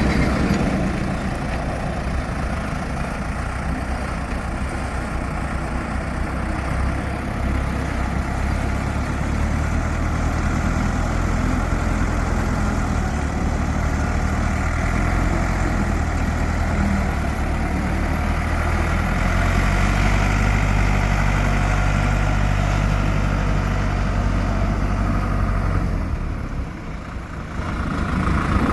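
Deutz diesel engine of a Ditch Witch 6510A trencher running steadily, its note shifting a couple of times, with a brief drop in level near the end.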